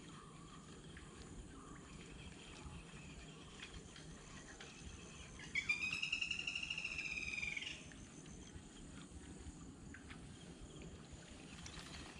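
An animal call: one pulsed, slightly arching trill lasting about two seconds, starting about halfway through, over faint outdoor background.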